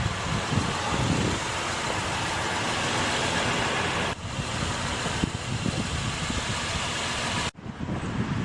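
Steady rushing background noise of a vehicle idling outdoors, likely the Honda Pilot's 3.5-litre V6 left running, mixed with wind on the microphone. It drops slightly about four seconds in and cuts out abruptly for a moment near the end.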